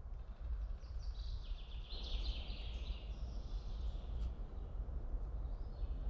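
A small songbird twittering for a few seconds, starting about a second in, over a steady low rumble of outdoor noise.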